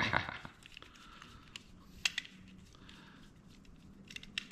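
A few faint, sharp clicks and light handling noise from the plastic and metal parts of a Pelco dome security camera being taken apart by hand, with one louder click about two seconds in and a quick cluster of clicks near the end.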